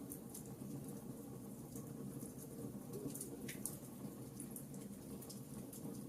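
Wood fire burning in a fireplace: scattered small crackles and snaps over a steady low rumble of the flames.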